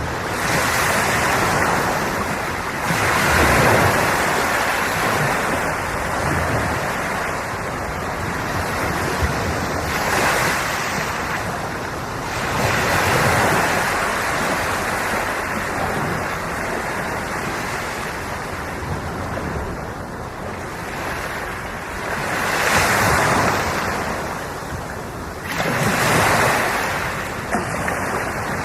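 Sea waves breaking and washing onto the shore, the surf swelling and falling in repeated surges a few seconds apart.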